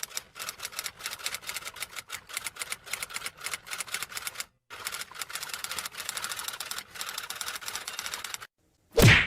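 Rapid typewriter keystrokes clicking, with two short pauses, then a single loud hit near the end.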